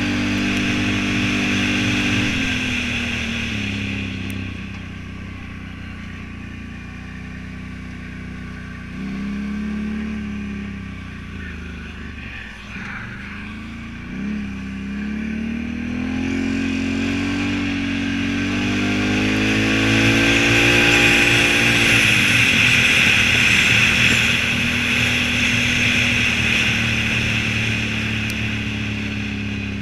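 Can-Am Renegade 1000 ATV's V-twin engine running with the revs rising and falling several times as the throttle is worked. It climbs to its highest and loudest about two-thirds of the way through, then settles back to a lower, steady note.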